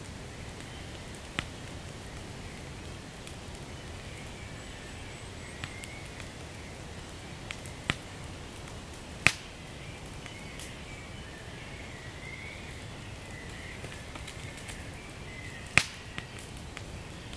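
Wood fire burning with a steady hiss and scattered sharp crackles and pops, the two loudest about nine seconds in and near the end.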